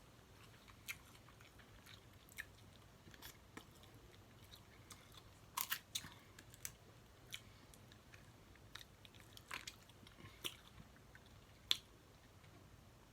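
A person eating snow crab legs up close: faint chewing with scattered sharp clicks and crackles. The loudest are a quick double click about halfway through and a single one near the end.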